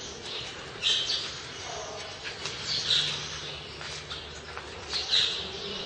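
A bird chirping inside a large steel structure: short, high calls repeated about every two seconds over a steady background hiss.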